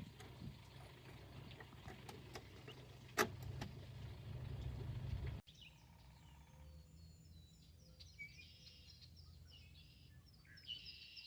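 A low, steady rumbling noise with a single sharp click about three seconds in, which cuts off abruptly about halfway through. Then birds chirping with many quick, repeated short calls over a faint steady background.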